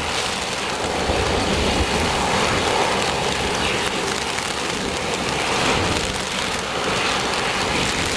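Heavy wind-driven rain, with wind buffeting the microphone: a steady rushing noise that does not let up.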